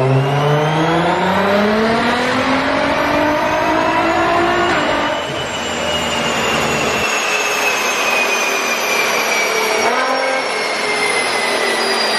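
Nissan GT-R with an Armytrix valved exhaust, the engine revving steadily higher for about five seconds. A high-pitched whine then slowly falls in pitch while the deep exhaust note drops away.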